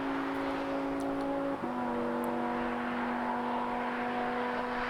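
A car engine on the Autobahn holding a steady note at speed. About one and a half seconds in the sound dips briefly, then settles at a slightly lower pitch.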